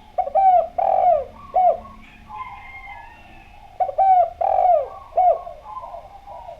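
Spotted dove (derkuku) singing: two loud phrases of four cooing notes, about three seconds apart, with fainter cooing between them.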